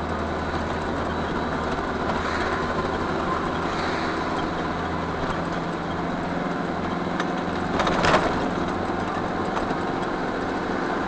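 Steady engine and road noise of a moving vehicle heard from inside the cabin, with a brief louder rush about eight seconds in.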